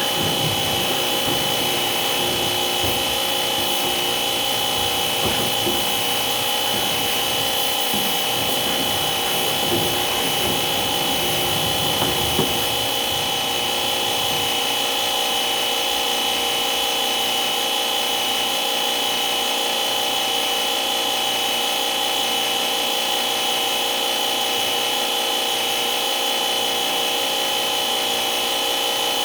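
A small electric motor running steadily with a constant whine. Irregular scraping and knocking run over it for roughly the first half, then stop.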